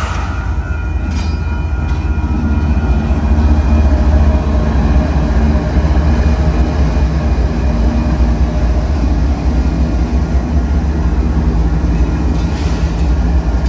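Union Pacific diesel-electric freight locomotives passing close by, a loud steady rumble of engines and wheels on rail. It grows louder over the first few seconds as the lead units come alongside, then holds.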